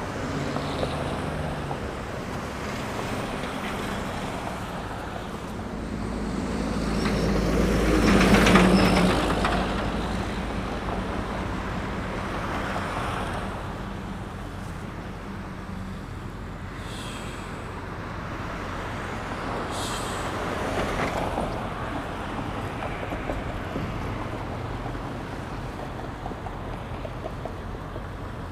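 City road traffic heard from a moving bicycle. A motor vehicle passes close about eight seconds in, its engine sound swelling and then fading, and a smaller pass comes around twenty seconds in.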